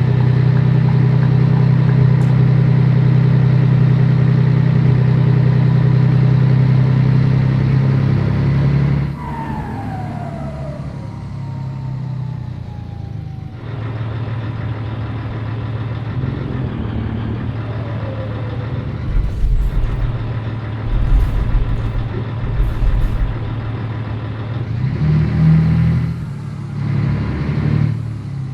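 Scania 113 truck's straight-six diesel engine pulling steadily under load, then easing off about nine seconds in as the revs fall away. It runs lighter for a while with a few low bumps, and picks up again near the end.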